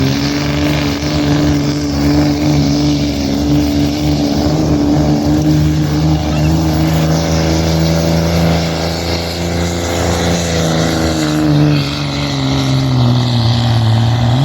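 Engine of a competition pulling truck or tractor running hard and steadily under load, then slowing and dropping in pitch over the last few seconds.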